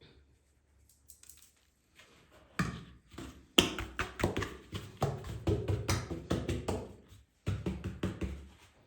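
A rapid, irregular clatter of taps and knocks, like hands handling hard objects. It starts about two and a half seconds in, with the loudest sharp knock about a second later, and pauses briefly near the end.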